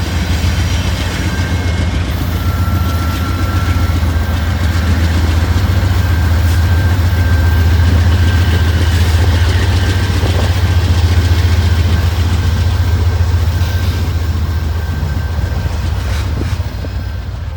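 Diesel train passing: a steady, deep locomotive engine drone under the rumble of rolling rail cars. It grows louder toward the middle and fades near the end.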